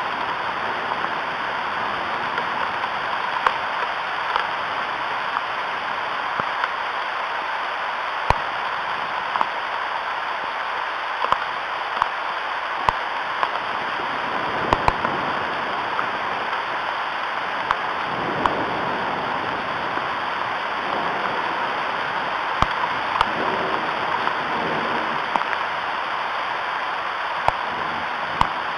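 Steady rain falling, an even hiss with many scattered sharp ticks of single drops striking.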